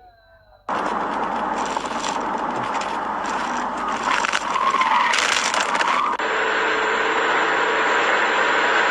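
Road and engine noise of a moving car, starting abruptly under a second in, with a louder, harsher stretch of noise around four to six seconds in.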